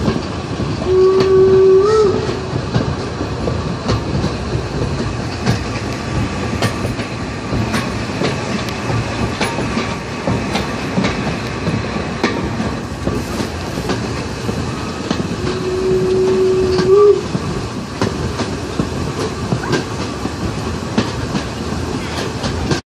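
Museum railway train running on the rails, its wheels clicking over the rail joints under a steady rumble. The locomotive sounds a single held signal tone twice, about a second each: once just after the start and once past the middle, each ending with a slight upward bend in pitch.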